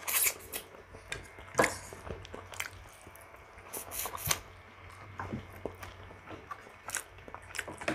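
Close-up chewing of pork ribs and rice, with scattered sharp mouth clicks and smacks.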